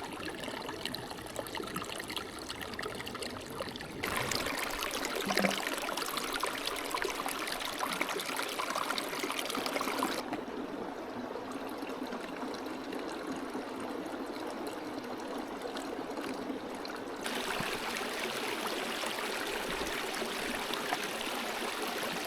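A small mountain stream running over rocks: a steady rush and trickle of water. Its loudness and tone change abruptly about 4, 10 and 17 seconds in.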